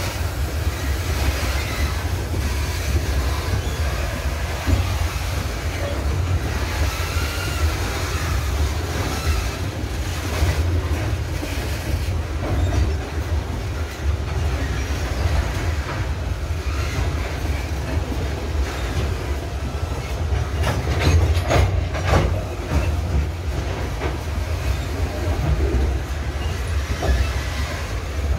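Loaded cement tank wagons of a freight train rolling past: a steady low rumble with the wheels clicking over the rail joints. A cluster of sharp metallic clanks comes about two-thirds of the way through.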